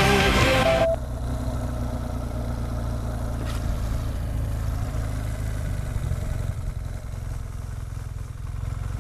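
Rock music cuts off abruptly about a second in, leaving a BMW R 1200 GS Adventure's boxer-twin engine running steadily.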